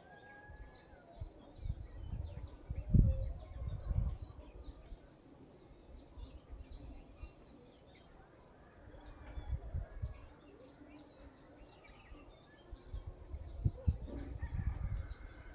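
Small birds chirping in the background, many short repeated chirps, with low muffled bumps and rumbles a couple of seconds in and again near the end that are the loudest sounds.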